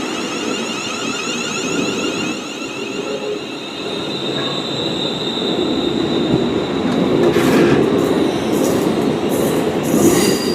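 Class 360 Desiro electric multiple units running at the platform: a whine from the traction equipment over rail noise, a high steady squeal from about four seconds in, and short hissing bursts near the end as the sound grows louder.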